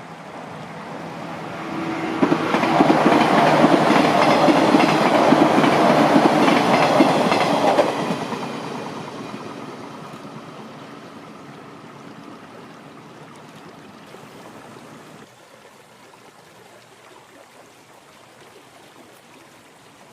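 A train passing close by: the noise of the train builds quickly about two seconds in, stays loud for some six seconds, then fades away as it recedes.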